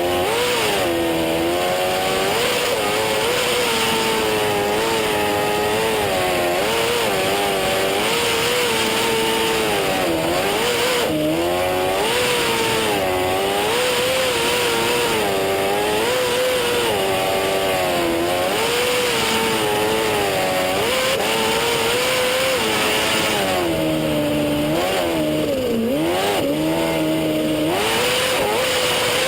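Jet boat engine running at high revs, its pitch rising and falling constantly as the throttle is worked through turns, with a couple of deeper drops and recoveries near the end.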